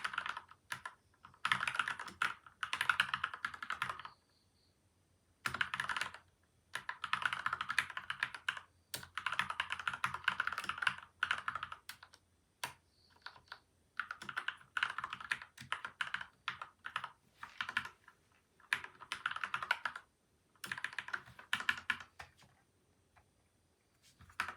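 Typing on a modded PCL87 mechanical keyboard with Gateron milky white and Outemu yellow switches, lubed and foam- and tape-dampened: fast runs of key presses lasting a second or two, broken by short pauses.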